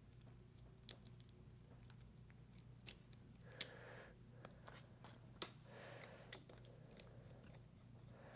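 Faint scattered clicks and taps of small parts and hand tools being handled while fitting the screws of a motorcycle clutch master cylinder reservoir cover, with two brief soft rustles. A steady low hum sits underneath.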